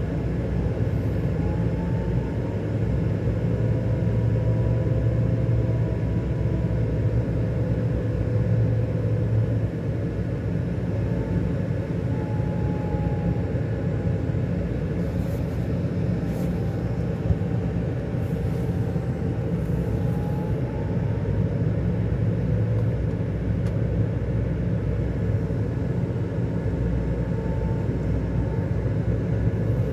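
Scania K400 Euro 5 coach's engine running steadily while the bus is under way: a constant deep drone, with a faint whine that drifts slowly up and down in pitch.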